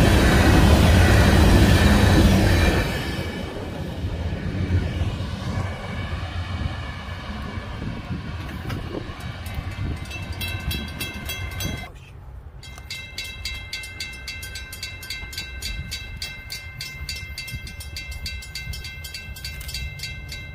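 Freight train of covered gondola cars rolling past close by, loud for the first couple of seconds and then much quieter. About halfway through the level drops and a steady, evenly repeating pattern of high tones runs on.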